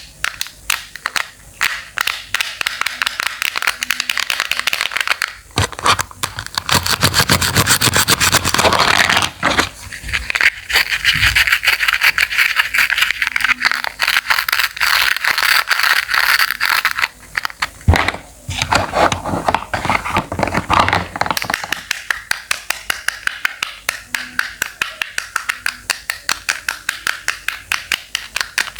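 Knife chopping fresh produce on a cutting board in quick repeated strokes, about three a second, with denser, louder stretches of crisp cutting through the middle.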